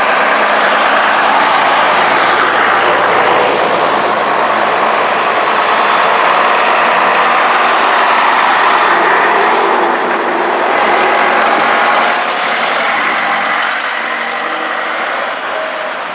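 Diesel engine of a vintage Scania truck running as it drives off, easing somewhat after about twelve seconds.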